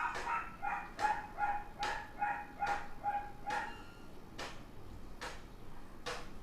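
A dog barking in quick repeated yaps, about two or three a second, stopping a little past halfway. Sharp clicks sound about once a second throughout.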